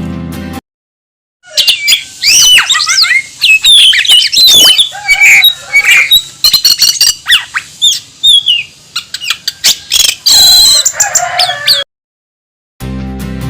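A songbird singing loudly: a varied song of quick whistled glides and chirps, with a buzzy trill near the end.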